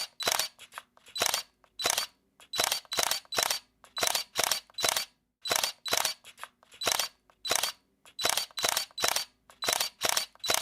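Camera shutter clicking over and over: sharp clicks, often in quick pairs or small clusters, about two a second with short pauses between.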